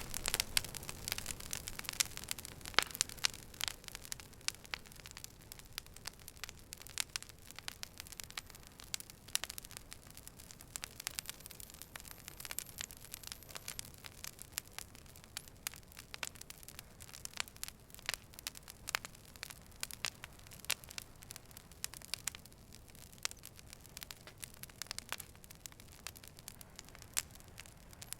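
Fire burning, with irregular sharp crackles and pops over a soft hiss. The crackles come thickest in the first few seconds and thin out after.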